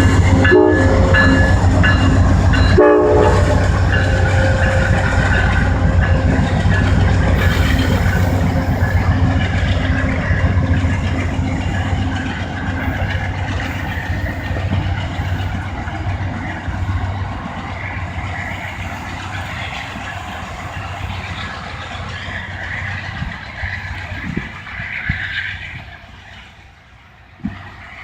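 Amtrak Vermonter's diesel locomotive and passenger train: its horn sounds and stops about three seconds in, then the deep engine rumble and rolling cars carry on and slowly fade as the train moves away.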